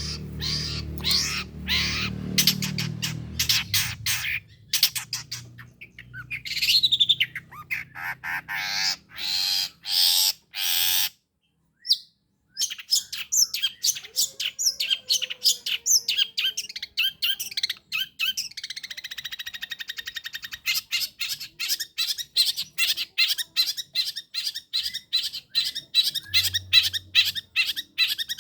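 Long-tailed shrike (pentet) singing a fast, harsh run of squawks and chirps, with a break of about a second just before halfway and a rapid even trill around two-thirds through. A low hum sits underneath for the first few seconds.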